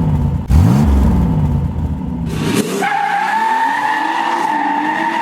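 A car engine revving up and down twice, then a sustained high tire squeal that starts about three seconds in.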